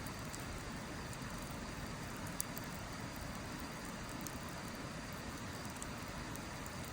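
Wood fire burning, with a few sharp crackles and pops of the firewood, the loudest about two seconds in, over a steady rushing hiss.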